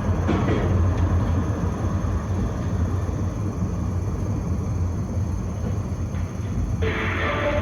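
Tram running along its line with a steady low rumble. Near the end a louder, higher, grinding noise with a few held tones joins in.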